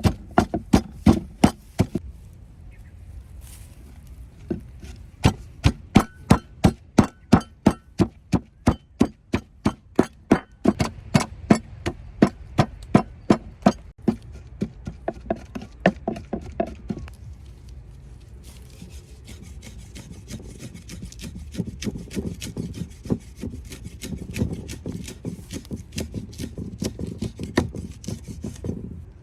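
Heavy, regular blows on wood, about two to three a second, typical of food being chopped or pounded on a wooden block. After a pause they give way to quieter, quicker tapping and rubbing.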